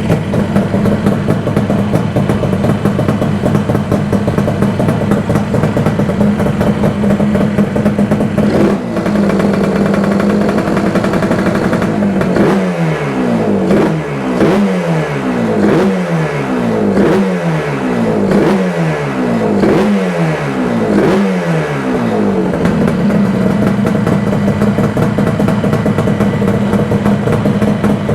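Freshly rebuilt Yamaha RD400 Daytona two-stroke parallel-twin engine running in the bike. It idles steadily, then about halfway through the throttle is blipped about ten times, roughly once a second, each rev dropping back quickly. It then settles back to a steady idle.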